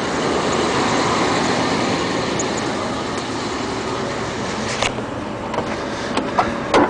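A road vehicle going past, a steady rush of tyre and engine noise that swells about a second in and slowly fades. A few light clicks sound near the end.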